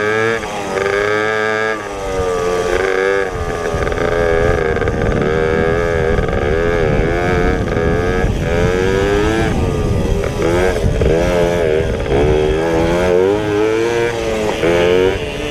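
Pit bike engine racing on a motocross track, its pitch climbing and dropping again and again as the throttle is opened and closed, over a rough rumble.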